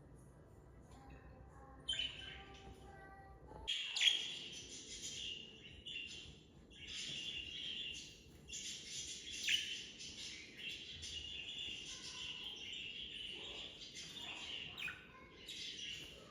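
Budgies chirping and warbling. After a few faint chirps the chatter becomes near-continuous from about four seconds in, with a few sharper chirps standing out.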